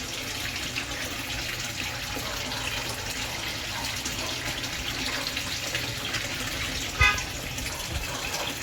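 Steady running, splashing water of a koi pond's water flow. About seven seconds in comes a single brief knock with a short ringing tone.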